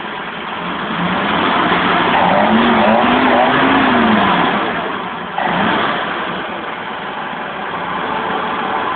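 Four-cylinder engine of a 1971 BMW 1800/2000 ti, just brought back to life, revved from idle. The revs climb over a couple of seconds, hold and fall back, then a sudden jump in sound about five seconds in before it settles back to a steady idle.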